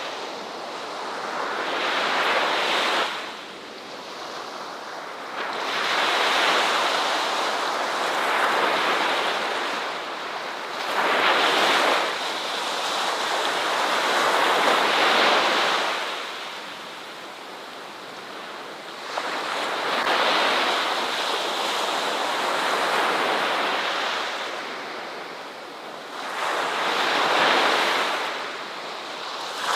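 Ocean surf: waves breaking and washing up a shore, the rush swelling and falling away every few seconds.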